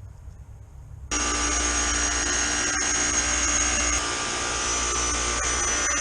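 Running chiller: loud, steady mechanical noise with a buzzing hum from the compressor and condenser fans, setting in abruptly about a second in.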